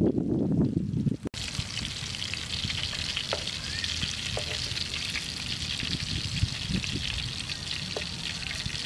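Meat and green peppers sizzling in a frying pan on a portable gas stove, with a few light clicks of tongs against the pan. For about the first second a loud low rumble covers it, then cuts off suddenly.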